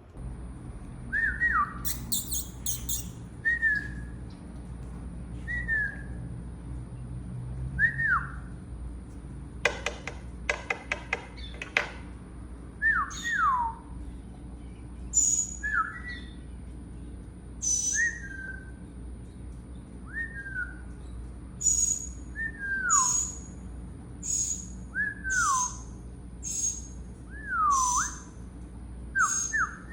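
A songbird calling with short whistled notes that slide downward, repeated every second or two, mixed with sharp high chips. A quick run of clicks comes near the middle.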